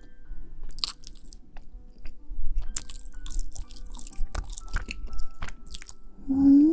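Close-up chewing and biting of crunchy food into the microphone, a scatter of irregular crisp crunches and mouth clicks. A short voiced hum comes near the end.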